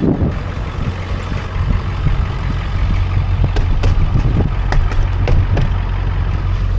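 Truck engine idling steadily, with a scattering of sharp clicks and knocks in the second half.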